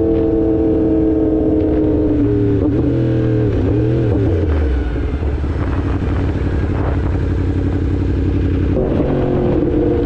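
2016 Yamaha R1's crossplane inline-four engine running on the move. It holds a steady note, wavers and drops in pitch about two seconds in, then settles to a steady note again near the end.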